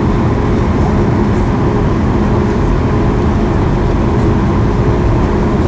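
Steady cabin noise inside a Boeing 737 MAX 8, its CFM LEAP-1B jet engines and airflow giving a loud, even low rumble with a steady hum.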